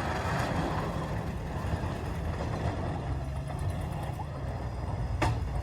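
Snowplow truck engine running with a steady low rumble. A single short click comes near the end.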